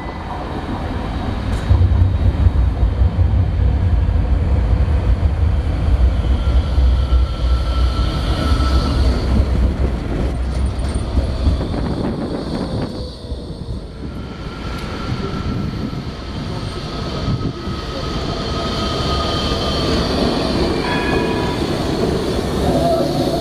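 A rail vehicle running past, with a deep rumble through the first half and then high-pitched squealing from its wheels on the rails.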